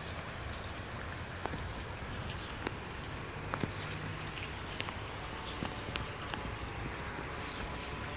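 Steady rain falling, with scattered single drops ticking sharply on a nearby surface.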